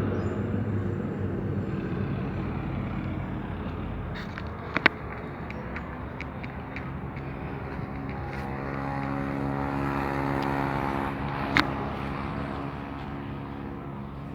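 Street traffic with a motor vehicle's engine running steadily, its hum strongest in the second half. Two short sharp clicks stand out, about five seconds in and again later.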